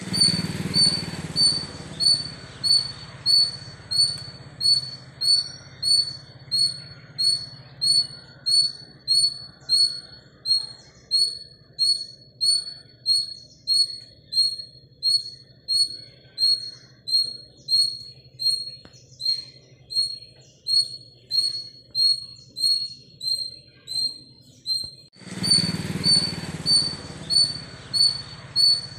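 A bird chirping over and over: one short high call roughly every 0.6 seconds, evenly spaced, over a low steady background hum. The sound breaks off for a moment about 25 seconds in and starts again.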